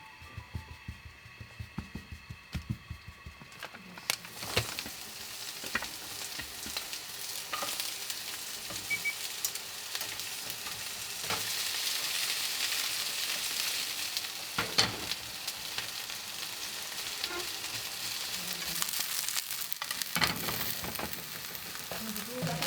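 Food sizzling in a hot frying pan. It starts a few seconds in and grows louder partway through, with occasional sharp clicks of a utensil against the pan.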